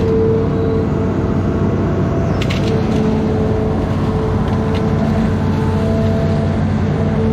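Amphibious excavator's diesel engine running steadily under working load, with a steady hum and whine. A few short sharp cracks come about two and a half seconds in.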